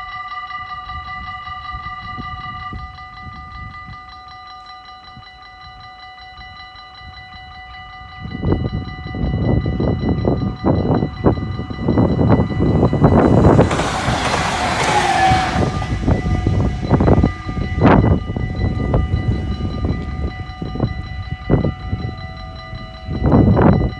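Level-crossing bells ringing as the barriers come down, then a train passing over the crossing, its wheels clattering over the rails, loudest about halfway through.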